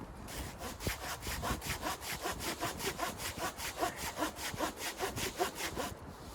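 Hand saw cutting through wood in quick, even strokes, about four or five a second, stopping near the end.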